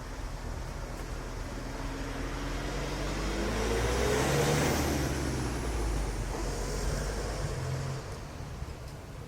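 A road vehicle drives past, growing louder to a peak about halfway through and fading away by about eight seconds in, its pitch dropping as it goes by.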